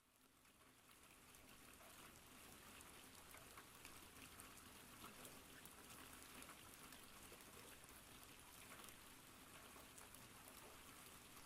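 Near silence: a faint steady hiss with light scattered crackles, fading in slightly after a complete dropout.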